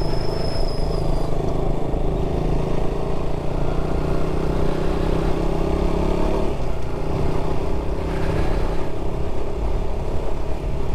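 Motorcycle engine running steadily while riding, with rumbling noise on the microphone.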